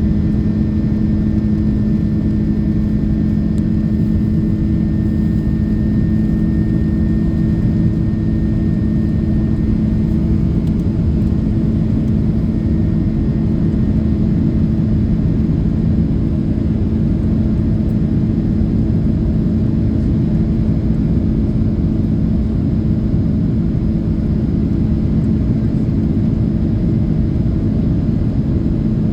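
Airbus A330-300 jet engines, Rolls-Royce Trent 700s, heard from inside the cabin as a steady, loud drone with a low hum. A faint high whine fades out about a third of the way in.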